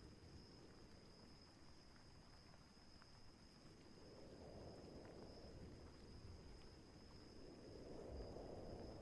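Faint stormy-night ambience: soft low rumbles of wind and distant thunder swell about four seconds in and build again near the end, over a thin steady high tone.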